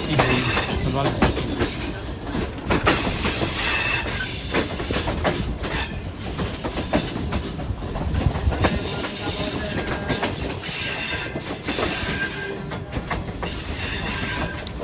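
Hazara Express passenger train running on the track, heard from aboard: wheels clattering over rail joints, with short high squeals of the wheels on the rails now and then.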